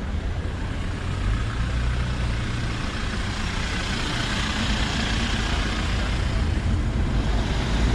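Road traffic: a vehicle passing with a low rumble, its tyre hiss swelling through the middle and easing off near the end.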